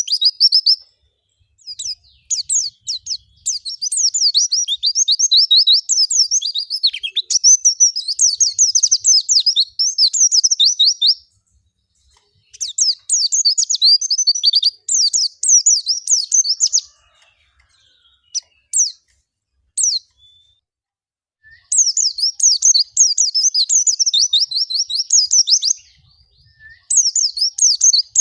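White-eye (pleci) singing in the wild 'ngalas' style: long, fast, high twittering phrases, broken by a short pause about two-fifths of the way through and a longer near-pause with only a few scattered notes around two-thirds of the way through.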